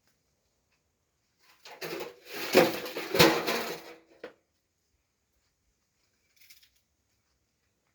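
A clatter of hard objects being knocked and shifted for about two and a half seconds, with some ringing, followed by a faint brief scrape near the end.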